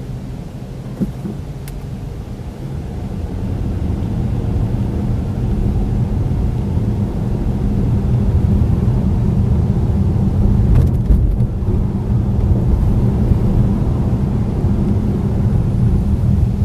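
Car on the move, heard from inside the cabin: a steady low rumble of engine and road noise that grows louder over the first several seconds, then holds steady.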